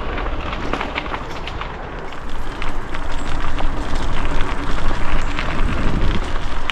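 Mountain bike rolling along a dirt singletrack: tyre noise on the trail with scattered clicks and rattles from the bike, getting louder about two seconds in.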